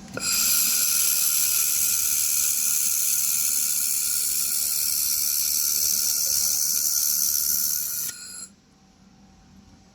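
A loud steady hiss of rushing air or gas, starting just after the start and cutting off about eight seconds in.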